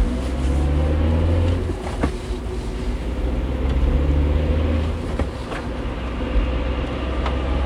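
A car's engine running with a deep, steady low rumble that swells twice.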